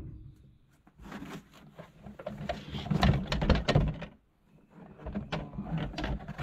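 Irregular knocking and clattering of tools and plastic tile fittings being handled, in quick uneven clusters, busiest in the middle.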